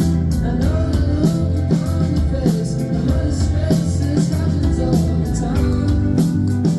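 Live rock band playing: electric guitar, bass and drums with a steady beat, with a singing voice over them.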